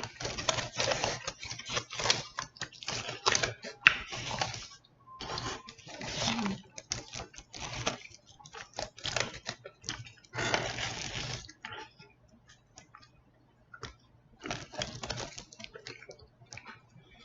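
A person chewing a chicken burrito close to the microphone, the mouth sounds coming in irregular clusters of short bursts, with a pause of about two seconds past the middle.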